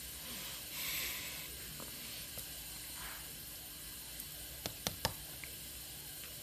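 Faint mouth sounds of someone chewing a sour Airheads candy: a short hiss about a second in and a few sharp clicks around five seconds.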